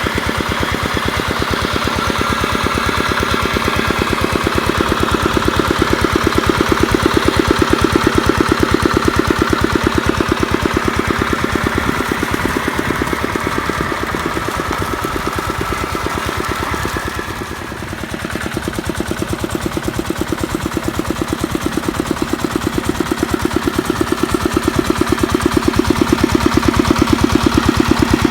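Kubota mini tractor's diesel engine running steadily with a fast, even chug while it drives a water pump. It dips briefly in loudness about two-thirds of the way through, then picks back up.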